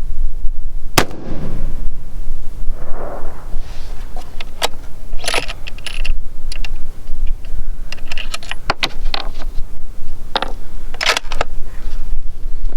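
A single rifle shot from a Howa 1500 in 6.5 Creedmoor about a second in, followed by a run of sharp mechanical clicks and clacks, with steady wind rumble on the microphone.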